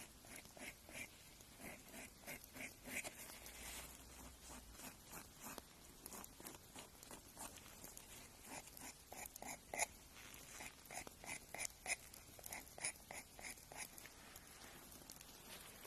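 Faint, close rasping strokes of a nail file being worked over fingernails, short irregular scrapes a few times a second, a little louder around the middle and later on.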